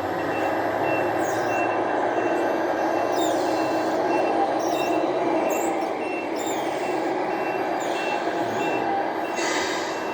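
A 1/14-scale RC truck or earthmover reversing: a steady engine sound with a reversing beeper going about twice a second. There is a short hiss near the end.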